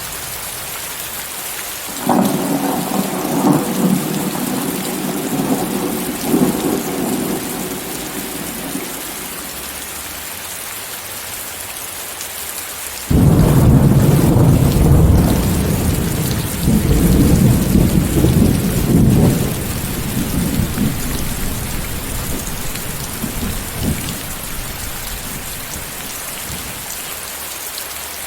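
Steady heavy rain hiss with two rolls of thunder. The first rumble begins about two seconds in and fades over several seconds. A louder clap breaks in suddenly near the middle and rumbles on for about seven seconds.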